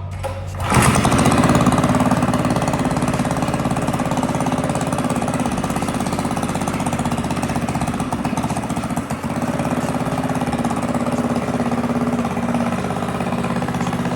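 A mini bike's single-cylinder Predator 212 engine, built up with a high-compression head, a PWK carburetor and 1.3 ratio rocker arms, comes in abruptly about a second in and then runs steadily with a fast, pulsing beat.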